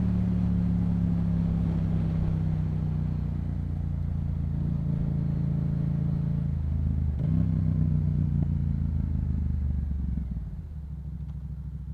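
Yamaha MT-07's parallel-twin engine through a Yoshimura exhaust, its pitch falling slowly as the bike slows. The pitch rises briefly about seven seconds in, then the engine drops to a quieter, lower steady note about ten seconds in.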